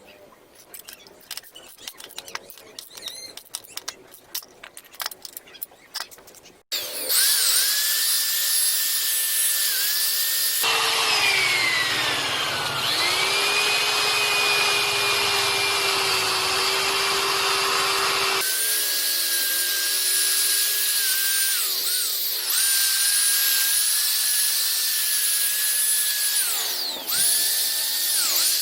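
Light scratching and clicking, then a handheld electric power tool starts and runs with a steady high whine, spinning a buffing wheel to polish a metal exhaust pipe. Its pitch sags and recovers now and then.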